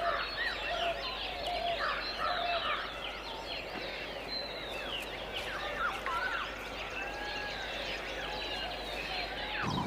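A dense chorus of many birds calling at once, with short overlapping sweeping calls. It cuts off abruptly near the end.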